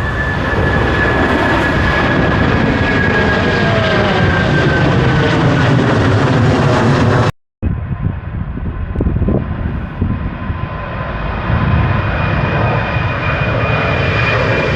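Jet airliner engines running, a loud roar with a high whine slowly falling in pitch. The sound cuts out abruptly about seven seconds in, then the jet noise returns with a steady high whine.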